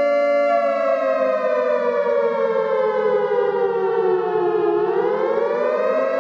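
A loud, sustained siren-like tone made of several notes together, sliding slowly down in pitch and then rising back up near the end.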